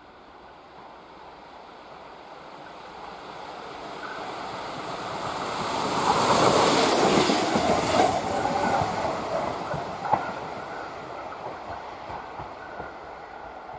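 Train approaching and passing close by, loudest about six to eight seconds in, with sharp wheel clicks over the rail joints, then fading as it runs away.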